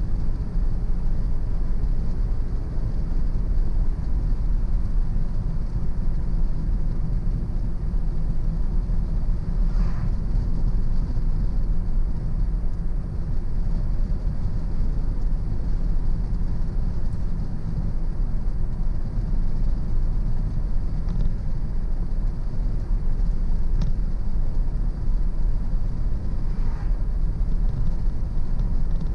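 A car driving at a steady speed: continuous low road and engine rumble.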